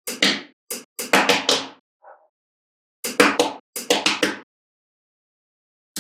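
Small magnetic balls clicking and rattling against one another in quick clusters of snaps, with short silent gaps between the clusters.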